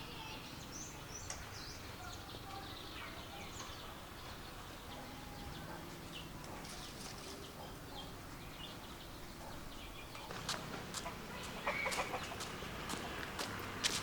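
Domestic chickens clucking with short calls, and a run of sharp clicks and knocks that starts about two-thirds of the way in and grows louder toward the end.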